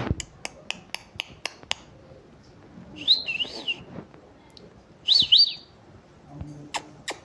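Pet parrot giving two short, high, warbling whistled chirps a couple of seconds apart, each sliding quickly up and down in pitch. Before them, a quick run of sharp clicks, about three a second, stops about a second and a half in.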